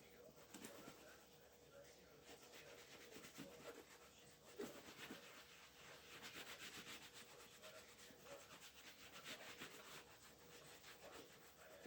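Faint quick, repeated rubbing strokes on a shoe, hand work such as sanding or buffing, coming thickest in the middle of the stretch.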